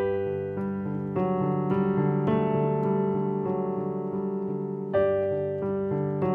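Piano playing held right-hand intervals over a repeating left-hand broken-chord pattern that moves about twice a second. The right-hand interval is struck at the start and a new one about five seconds in.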